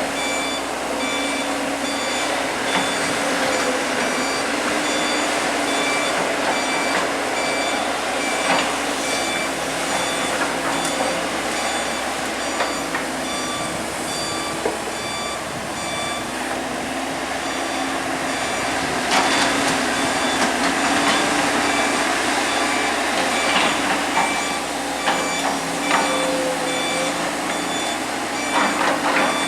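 Excavator's diesel engine running steadily while its travel alarm beeps over and over at an even pace, with scattered short knocks from the machine at work.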